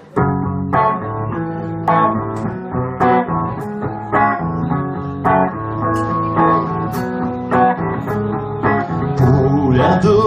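Live band playing an instrumental intro led by guitar: chords struck about once a second over sustained low notes, with no singing yet.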